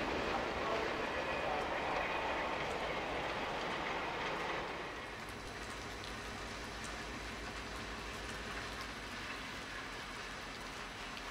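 A freight train's cars rolling away on the rails, the noise fading. About five seconds in it gives way to an EMD GP38-2 diesel locomotive's 16-cylinder two-stroke engine idling with a low, steady pulse, with rain falling.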